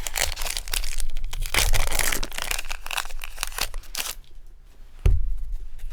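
Pokémon card booster-pack wrapper being torn open and crinkled for about four seconds. Then a single low thump about five seconds in.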